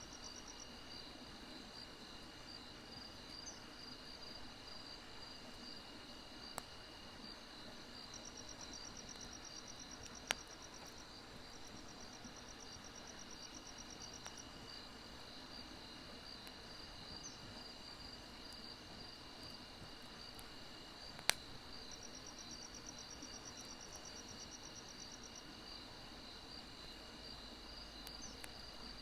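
Crickets and other grass insects chirping steadily, with stretches of fast pulsed trilling that come and go. A wood fire gives an occasional sharp pop, loudest about a third and about two-thirds of the way through.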